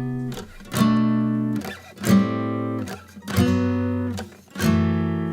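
Instrumental song intro on guitar: four slow chords strummed about a second and a third apart, each left to ring out and fade.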